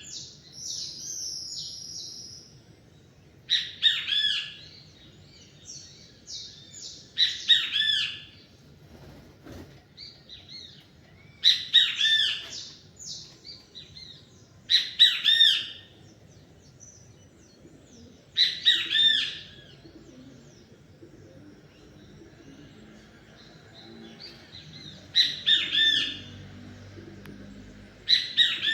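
A songbird repeating a short song phrase of quick down-slurred notes every few seconds, seven times, with a longer pause in the middle; fainter chirps from other birds fill the gaps.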